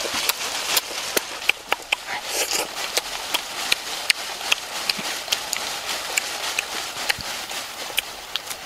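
A boy chewing and smacking his lips while eating with his fingers: irregular sharp wet clicks and smacks, several a second.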